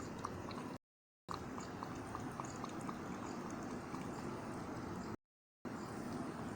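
A cat lapping milk: a quick run of small wet ticks, about five a second, over a steady background hiss. The sound cuts out completely twice, each time for under half a second.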